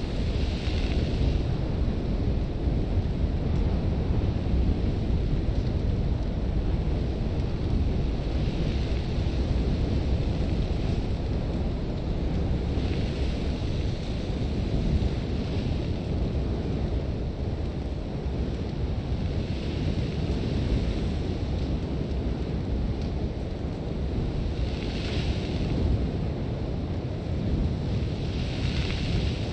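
Sandstorm wind blowing hard and steadily with a deep continuous noise. Every few seconds a gust brings a short hiss of blown sand, heard from inside a tent.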